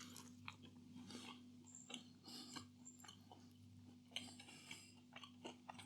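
Near silence: room tone with a faint low steady hum and scattered faint clicks and short rustles.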